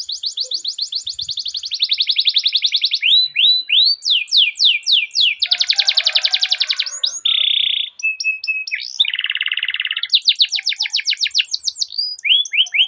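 Domestic canary singing without pause: long, fast rolling trills of rapidly repeated notes, broken by separate sweeping chirps and short dense buzzing rolls.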